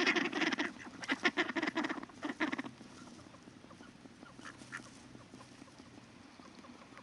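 Ducks quacking in a rapid, noisy chorus that stops about two and a half seconds in, leaving a quiet background with a few faint short calls.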